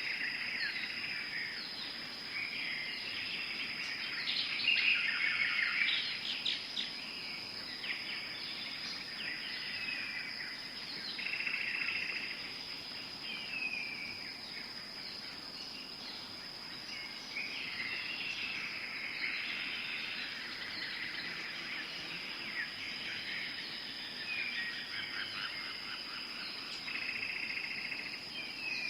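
Tropical forest ambience: a steady high-pitched insect drone under many birds chirping and calling, with repeated descending whistled notes. The birdsong is busiest a few seconds in.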